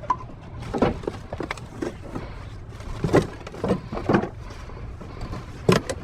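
Irregular knocks and clunks as a large aluminum-framed screen caught among dumpster debris is tugged and shifted, about half a dozen sharp hits with the loudest near the end, over a low steady rumble.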